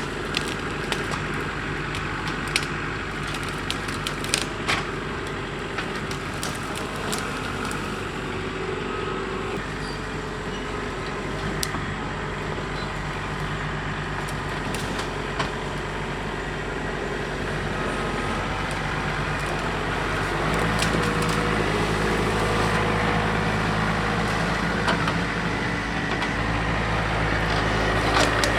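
John Deere 4052R compact tractor's three-cylinder diesel engine running steadily under work, with scattered sharp knocks. About two-thirds of the way through the engine gets louder and fuller.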